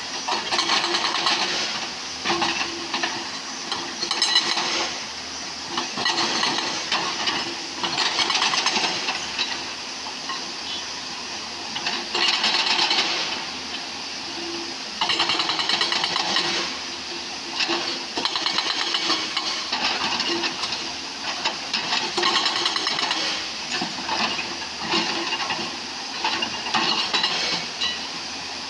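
JCB excavator at work: its diesel engine runs steadily under a rasping, hissing noise that swells and falls every second or two.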